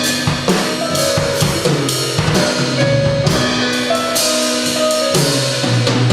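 Jazz trio of keyboard, bass and drum kit playing, with busy snare, bass drum and cymbal strokes over a walking bass line and held keyboard chords.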